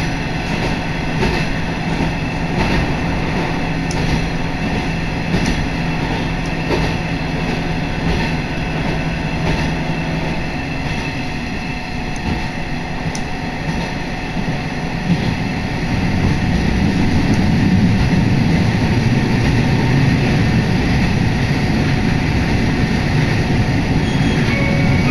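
Steady running noise inside a Hisatsu Orange Railway diesel railcar travelling at speed: a low rumble with a steady hum and light clicks of the wheels over the rail joints. The rumble grows louder about two-thirds of the way through.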